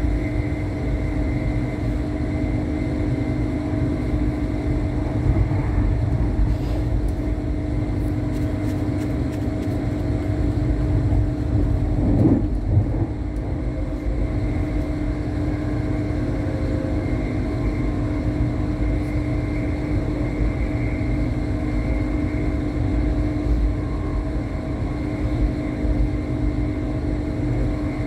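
Passenger train running, heard from inside the carriage: a steady low rumble of wheels and running gear with a constant drone, swelling briefly about twelve seconds in.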